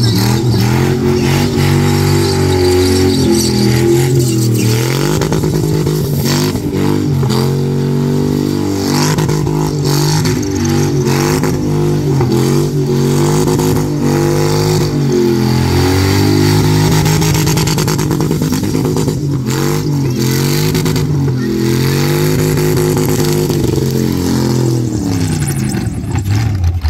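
GM LS1 5.7-litre V8 in a Toyota Starlet running at high revs through a burnout, the revs rising and falling over and over as the rear tyres spin in a cloud of smoke.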